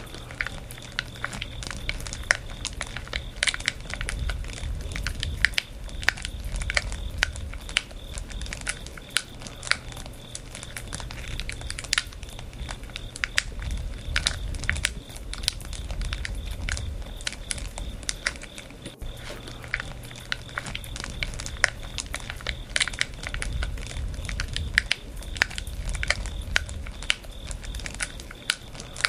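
Campfire of burning wood crackling, with frequent irregular sharp pops and snaps over a low rumble of flames that swells and fades.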